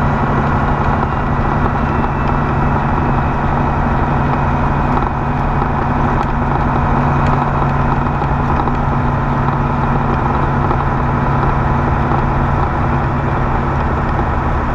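Semi-truck's diesel engine running steadily, with road noise, while the truck is driven.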